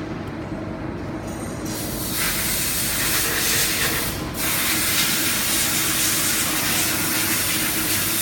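Mini CNC machining center running with a steady machine hum. A loud spray hiss starts about two seconds in, breaks off briefly about halfway, then carries on.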